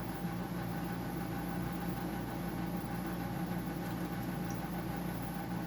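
Steady machine hum with an even hiss: a continuously running motor or fan, unchanging throughout.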